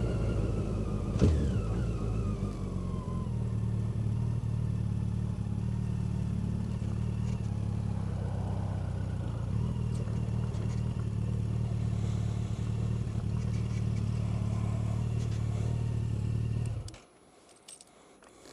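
Road vehicle engine running steadily on the move, with a falling whine over the first few seconds and a sharp knock about a second in. The engine sound cuts off suddenly near the end.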